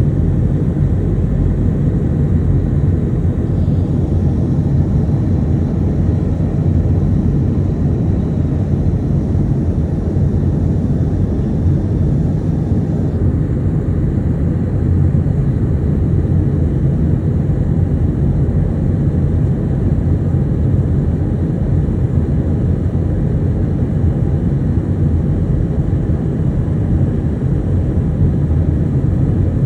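Steady low rumble of engine and airflow noise inside the cabin of an Airbus A320-212 airliner in flight, heard from a window seat near the wing, with its CFM56 turbofans running.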